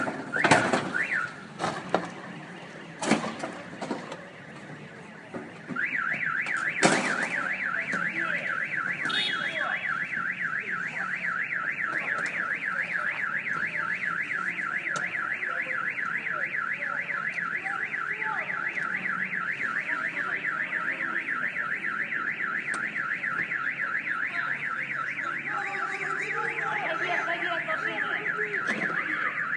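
A few sharp knocks and cracks, then a car alarm starts about six seconds in and keeps sounding a rapid up-and-down warbling siren.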